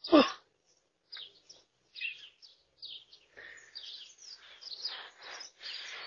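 Small birds chirping and twittering, many short high calls overlapping, thicker in the second half, heard through a doorbell camera's microphone. A short, louder sound right at the start.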